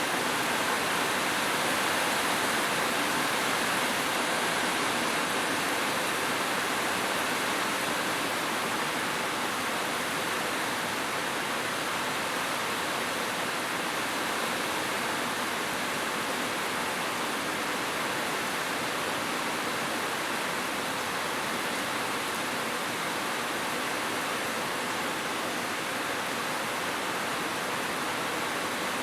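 Heavy rain falling steadily on a roof, a dense even hiss with no thunder or single drops standing out.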